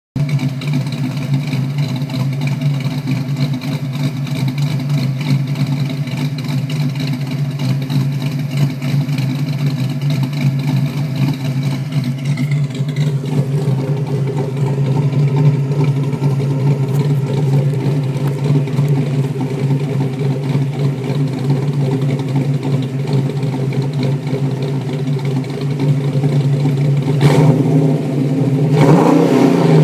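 1965 Ford Mustang's 331 stroker small-block V8 (fuel-injected, Trick Flow heads and Stage 2 cam) running through a 2-1/2 inch exhaust with Spintech mufflers. It idles steadily for most of the time, then near the end the throttle is blipped and the engine revs up and drops back a couple of times.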